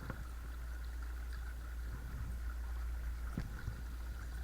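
Watersnake T24 12-volt electric trolling motor running on a kayak, a steady whine over a low rumble and water noise. A light knock about three and a half seconds in.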